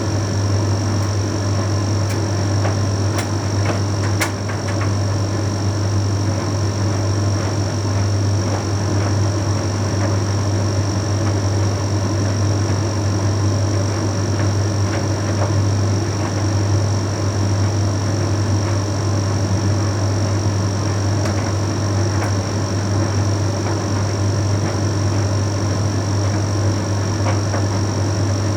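Bosch Series 6 heat pump tumble dryer running mid-cycle: a steady low hum with a thin high whine above it and an even rush of the turning drum, with a few faint ticks.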